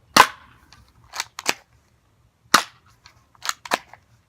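G1 airsoft pistol firing yellow BBs at a plastic cup: six sharp cracks, unevenly spaced and the first the loudest, each clicking shot or BB strike separate from the next.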